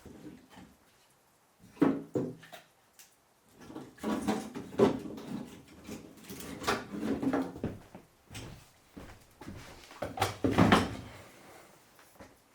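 Irregular bumps, knocks and clatter of gear and objects being handled in a small room, with short quiet gaps between. The loudest is about ten seconds in.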